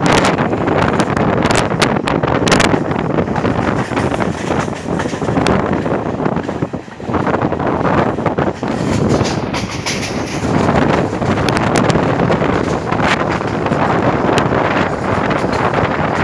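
Passenger train running on the track: a steady rush of wheel and wind noise, with irregular clicks and knocks from the wheels on the rails, and wind buffeting the microphone.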